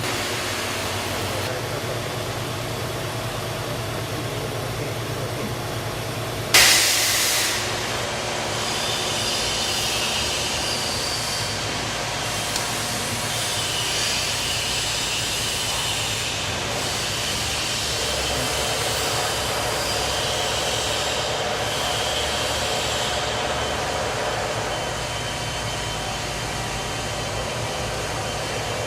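High-speed automatic key milling machine running with a steady hum. About six and a half seconds in comes a sudden loud hiss that fades within a second, followed by a high whine that wavers up and down.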